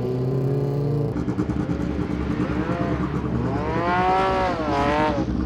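Race car engine idling steadily, then revved twice from about three and a half seconds in, its pitch climbing and falling back each time.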